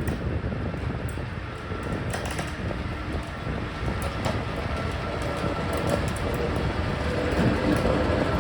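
Train hauled by ZSSK Cargo class 363 and class 240 'Laminatka' electric locomotives running through the station, growing slowly louder, with the wheels clacking over rail joints and points from about two seconds in.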